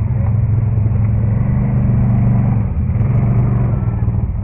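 Quad bike (ATV) engine running steadily with a deep rumble, easing off briefly a little before three seconds in, then picking up again.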